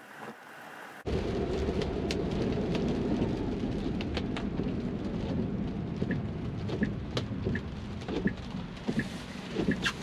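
Inside a Tesla Model 3's cabin in the rain: rain falling on the glass roof and windshield over a steady rumble of tyre and road noise, with scattered sharp drop clicks. The sound starts abruptly about a second in after a quieter moment. In the second half, a faint regular ticking comes roughly every 0.7 seconds.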